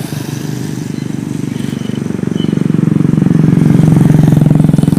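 Motorcycle engine running with a fast, even firing pulse, getting louder about two seconds in and then holding steady.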